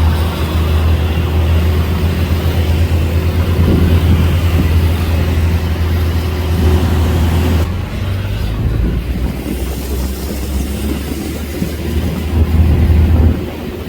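Steady low rumble of a moving vehicle, with an abrupt change in the sound about eight seconds in.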